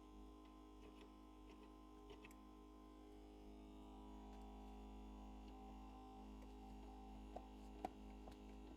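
Near silence: a faint steady hum, with a few light clicks near the end.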